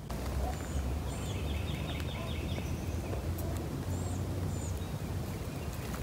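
Wild songbirds calling: short high chirps throughout, and a quick trill of repeated notes about a second in, over a steady low rumble.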